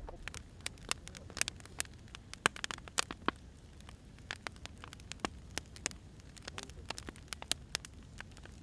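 Burning firewood crackling: irregular sharp pops and snaps, several a second, over a low steady rumble of the flames.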